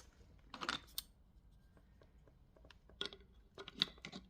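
Faint handling sounds of a 3D maze toy's pieces: a few short bursts of light clicks and rubbing, about three times.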